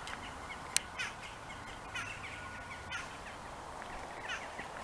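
A few short bird calls over a steady outdoor background hiss, with one sharp click just under a second in.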